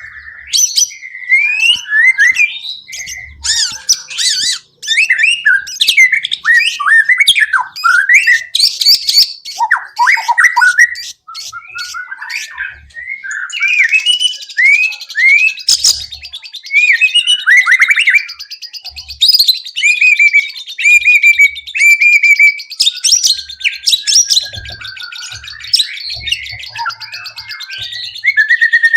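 White-rumped shama (murai batu) singing a long, varied song of loud whistles, slurred notes and chirps, with a fast buzzy trill around the middle. It is a full song with mimicked phrases, played as a lure to make a caged shama sing.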